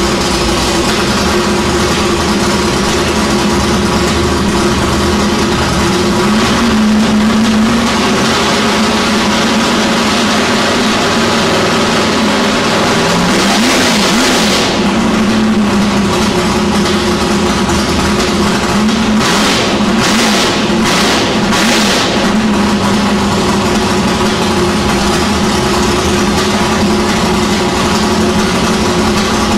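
1966 Ford Falcon XR drag ute's 370 cubic-inch Windsor V8 on twin carburettors running on its first start-up: a loud, steady idle, revved up and back down a couple of times partway through, then given several quick throttle blips.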